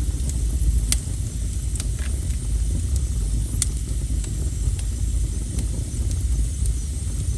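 Wood fire burning with a steady low rumble, scattered small crackles and two sharper pops, about a second in and near the middle.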